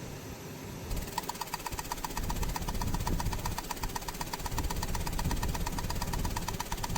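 A motor or engine running with a low rumble, joined about a second in by a rapid, even mechanical ticking that carries on steadily.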